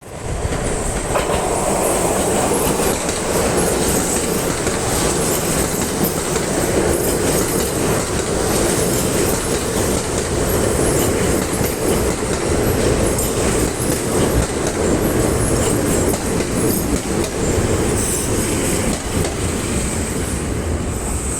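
Kintetsu 21000 series Urban Liner Plus electric express train pulling into a station platform: steady, loud rail running noise with a thin high-pitched squeal over it, easing slightly near the end as it slows to stop.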